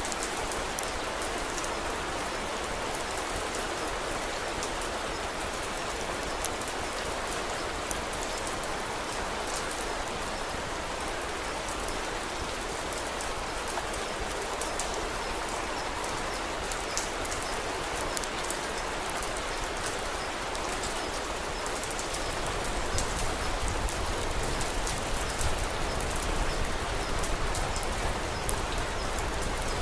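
Steady rain falling, an even hiss dotted with small sharp ticks. About two-thirds of the way through, a deep low rumble comes in beneath the rain and the overall sound grows a little louder.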